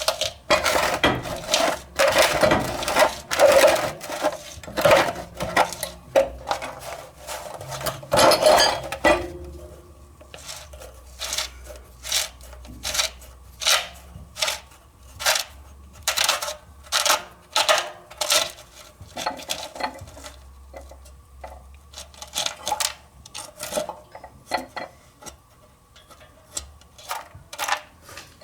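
Metal-on-metal scraping and clinking as a monkey wrench works a corroded steel nipple loose from a hot water heater tank. Dense scraping and knocks for the first third, then a steady series of short clicks, a little more than one a second.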